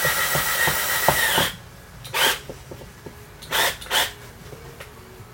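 Power drill driving a screw into a boat seat swivel, its motor running with a steady whine and stopping about a second and a half in. A few short scraping handling sounds follow.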